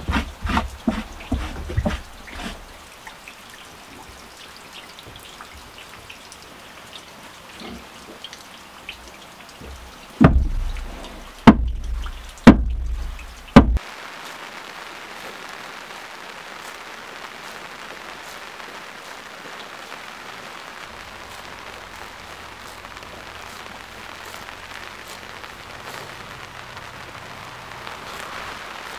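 A cloth rubbing and scrubbing inside an old wooden barrel, with four loud knocks against the wood a few seconds before a cut. After that, a steady patter of light rain on grass and leaves.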